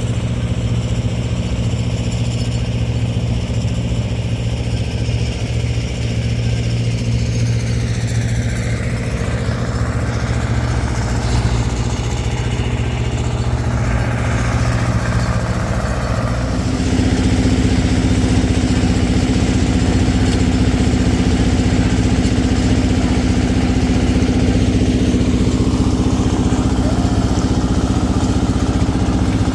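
An engine running steadily; about halfway through its pitch steps up and it gets louder, then holds at the higher speed.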